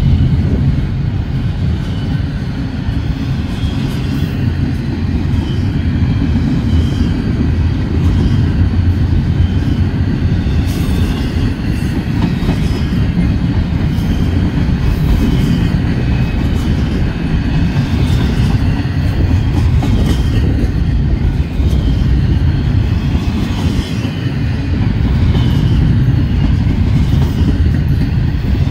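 Double-stack intermodal freight train's container well cars rolling past: a steady low rumble of steel wheels on rail, with occasional clicks and clacks from the wheels.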